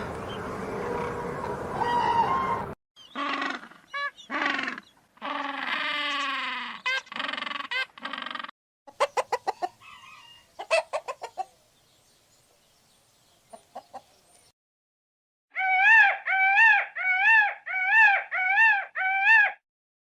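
Fowl calling in several short separate bursts after a few seconds of noisy background. Near the end come seven loud calls in quick succession, each rising and falling in pitch.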